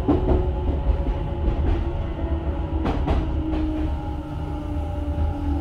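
Tokyo Metro 10000 series electric train running, heard inside the passenger car: the Mitsubishi IGBT-VVVF inverter and traction motors sound steady tones, the lowest falling slowly in pitch, over a low rumble from the wheels and bogies. Wheels click over rail joints near the start and twice about three seconds in.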